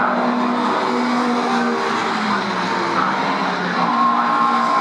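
Historic touring race cars' engines running hard on the circuit, their pitch stepping up and down as the cars lap.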